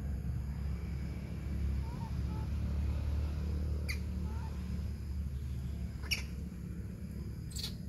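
Three brief, sharp, high bird chirps, spaced a couple of seconds apart, with a few fainter short chirps, over a steady low rumble.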